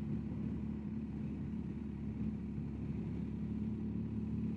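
BMW R1250GSA motorcycle's boxer-twin engine running steadily while riding, a low even hum.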